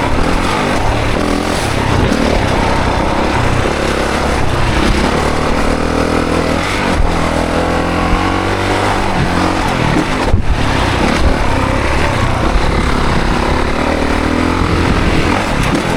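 2024 Honda CRF450 dirt bike's 450 cc single-cylinder four-stroke engine run hard, its pitch rising and falling repeatedly as the throttle is opened and shut, with a brief dip about ten seconds in.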